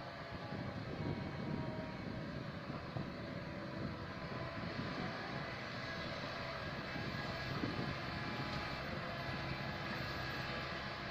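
Diesel engine of a Komatsu PC160LC tracked excavator running steadily under load as it digs and loads soil, its note swelling a little at times.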